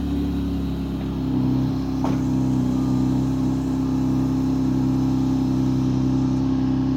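2014 Chevrolet Camaro's 3.6-litre V6 running through Xhelerator aftermarket mufflers, idling steadily with an even, unchanging exhaust note.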